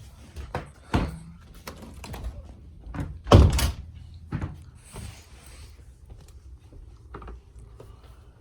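A series of knocks and thumps, with the loudest, a longer clatter, about three and a half seconds in, and a brief rustle just after.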